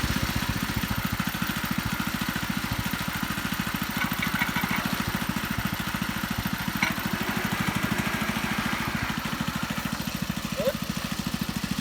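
International Cub Cadet garden tractor's engine running steadily at an even firing rate.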